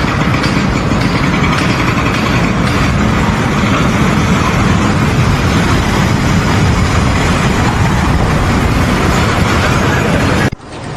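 Loud, steady running of a heavy vehicle or construction machine engine, cutting off suddenly near the end.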